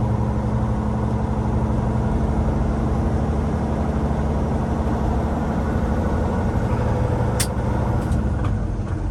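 Cummins X15 inline-six diesel of a Peterbilt 389 running steadily under way with road noise, a heavy-haul tractor pulling a loaded lowboy. A single sharp click about seven seconds in.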